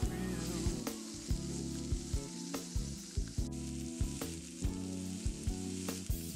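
Seasoned beef roast searing in hot oil in a frying pan, a steady sizzle, over background music with a steady beat.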